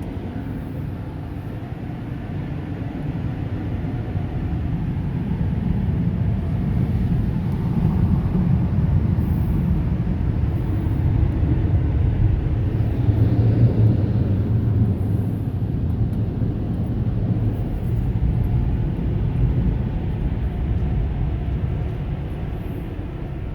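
Onboard dryer blowers of a LaserWash 360 Plus touchless car wash running, heard from inside the car as a steady low rumble. It swells in the middle and eases off near the end.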